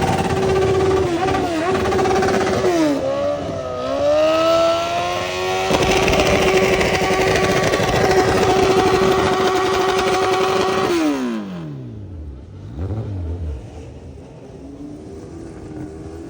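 An engine held at high revs at a steady pitch; it dips and climbs back up, holds high again, then is let off and its pitch slides down, followed by one short blip of the throttle.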